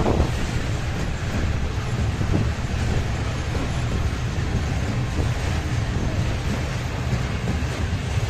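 A train passing with a steady rumble, strongest in the low end.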